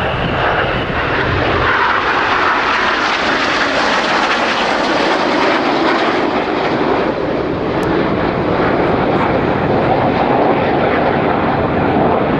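BAE Systems Hawk jets passing overhead, their Rolls-Royce Turbomeca Adour turbofans making a loud, steady jet noise. The pitch falls gradually during the first half as they go by.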